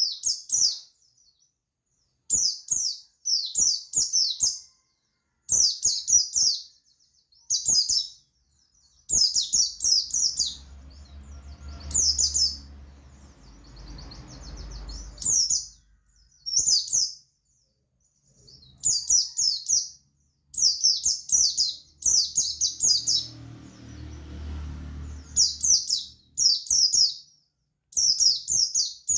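Pleci buxtoni (white-eye) singing in quick bursts of high, rapid twittering phrases separated by short pauses. Twice a low background rumble rises under the song for a few seconds.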